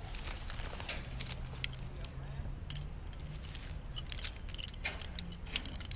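Scattered light clicks and metallic jingling, a quick run of short ticks like gear being handled, with a faint low hum underneath for a couple of seconds.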